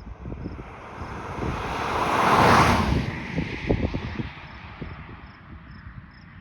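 A vehicle passing by, swelling to its loudest about two and a half seconds in and fading away over the next two seconds, with wind buffeting the microphone and faint cricket chirps.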